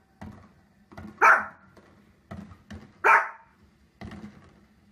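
A dog barking twice, two loud single barks a little under two seconds apart, with fainter short knocks and pops in between.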